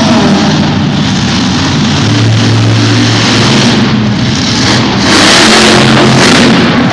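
Monster truck engine revving loudly, growing louder about five seconds in.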